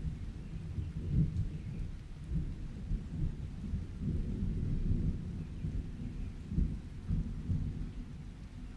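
Thunder rumbling continuously over steady rain, the rumble swelling and fading every second or so.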